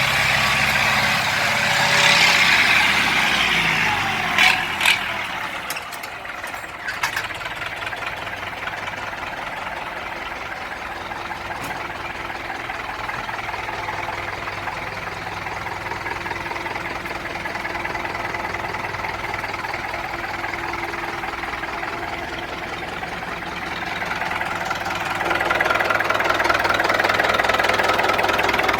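Universal U650 tractor's diesel engine running: loud for the first few seconds, then settling to a steady idle, and picking up again about 25 seconds in. Two short knocks stand out about four seconds in.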